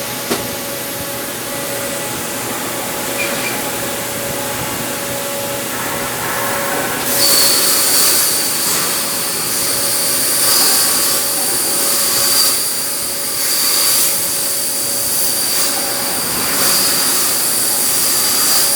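CNC steel-plate cutting machine running with a steady noisy hiss and a faint hum. About seven seconds in, a louder high-pitched hiss with a steady whine starts up and carries on, swelling a little now and then.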